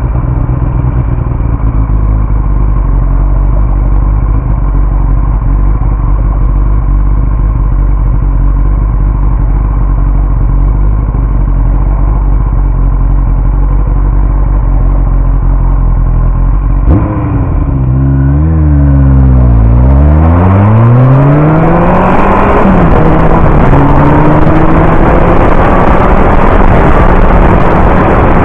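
Yamaha R1 inline-four motorcycle engine holding a steady low note for about 17 seconds. Then, after a click, the revs dip and rise, and the bike accelerates away with the pitch climbing, a short break in the climb near the end as it shifts gear, and rushing wind growing on the mounted camera.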